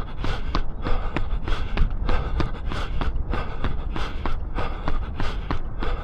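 A runner's footfalls at a steady cadence of about three steps a second, with hard rhythmic breathing at threshold effort.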